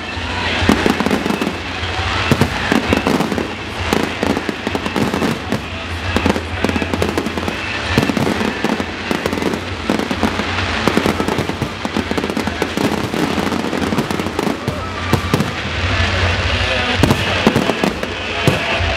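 Fireworks display: a dense, continuous run of bangs and crackling bursts, with music playing underneath.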